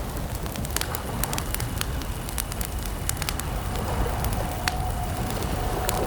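Wood campfire crackling, with frequent sharp irregular pops and snaps over a low steady rumble of burning. A faint steady chirring of crickets runs underneath.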